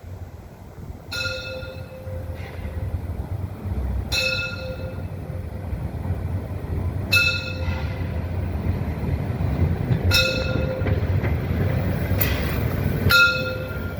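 Narrow-gauge class 99.23 steam train running closer, its rumble growing louder, while the locomotive's bell strikes once about every three seconds, five times in all.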